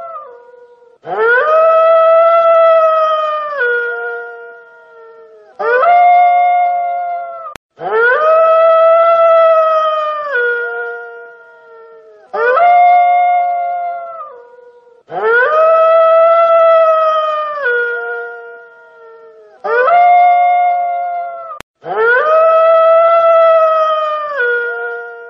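A wolf howling: a shorter howl followed by a longer, held howl that drops in pitch at the end, the same pair repeating about every seven seconds.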